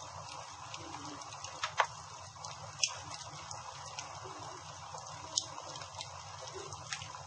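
Wood campfire crackling steadily, with a few sharp pops, the loudest about two and three seconds in.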